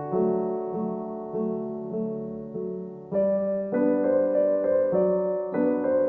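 Gentle solo piano music, notes and chords changing about every half second, a little fuller from about three seconds in.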